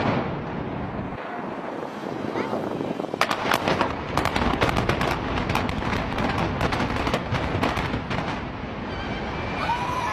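A rapid, irregular series of sharp bangs and cracks over a continuous rumbling noise, starting about three seconds in and going on to near the end.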